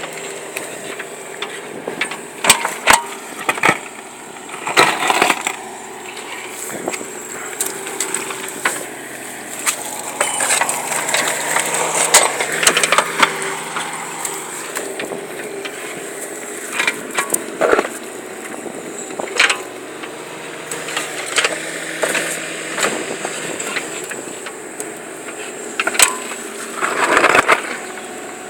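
Irregular crunching knocks and scrapes, some sharp and loud, over a steady low hum.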